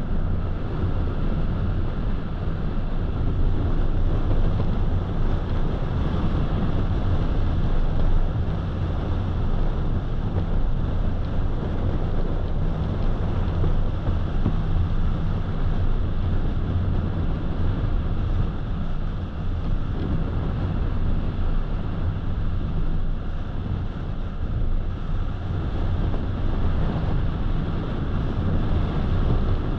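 Car driving at road speed: a steady low rumble of road and engine noise with a hiss of wind over it.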